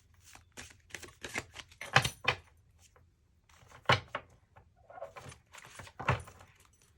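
Tarot cards being shuffled and handled: a run of quick card clicks and rustles, with three louder knocks about two seconds apart.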